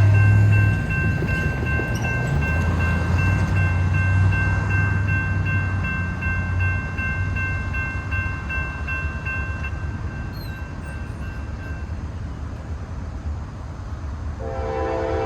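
Freight train's diesel locomotives running past, a heavy low rumble. Near the end a multi-chime locomotive horn starts to sound.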